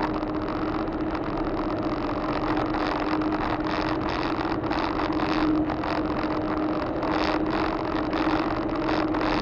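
Steady engine and road noise inside a moving vehicle's cab, with a constant droning hum.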